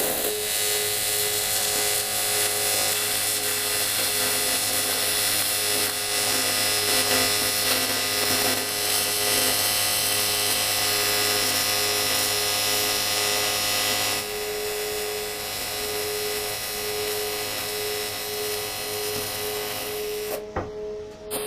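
AC TIG welding arc on cast aluminium alloy: a steady buzzing hiss that starts abruptly, eases about two-thirds of the way through, and cuts off near the end.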